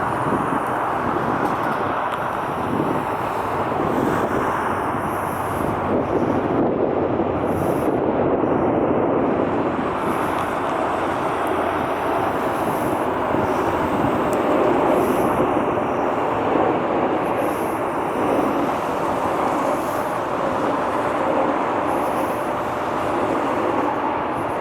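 Jet airliner engine noise: a steady, even rush with a faint whine held through it.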